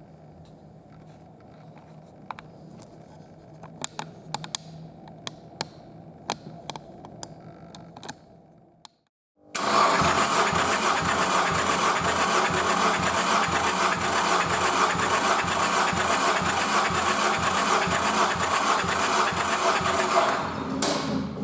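Nissan QR25DE 2.5-litre four-cylinder engine on a test stand, turned over by its starter for about eleven seconds: a loud even cranking with about four or five pulses a second as the cylinders come up on compression, as in a compression test, then winding down just before the end. Before it, a faint steady hum with a few light clicks.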